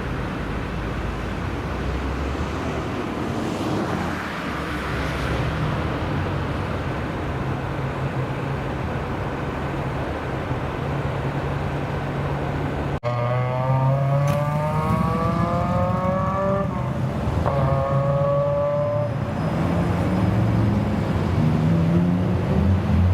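Car engines running at a steady low hum, then after an abrupt cut about 13 seconds in, a car accelerating hard, its engine pitch climbing for a few seconds, breaking off at a gear change, and climbing again.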